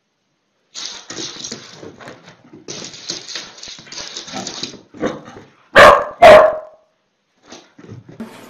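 A dog barking: two loud barks about half a second apart, after several seconds of quieter, noisy dog sounds.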